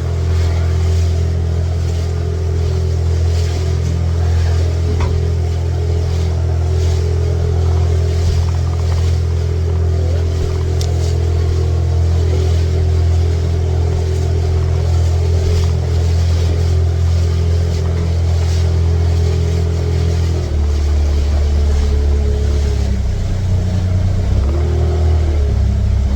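Small fishing boat's engine running steadily at cruising speed. About twenty seconds in its note drops lower, then wavers up and down near the end.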